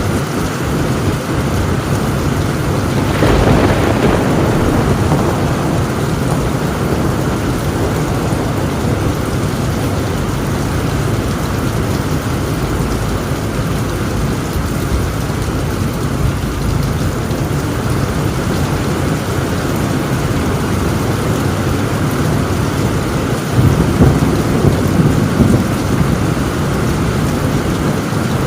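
Heavy rain pouring steadily on a tin roof, with thunder rumbling, louder about three seconds in and again near the end.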